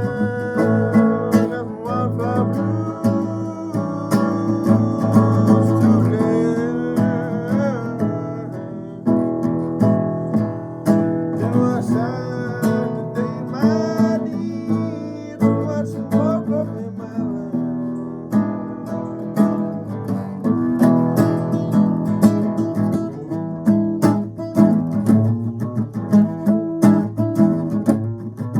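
Acoustic guitar playing a blues, strummed and picked. A bending, wavering melody line rides over it for the first several seconds and again around the middle.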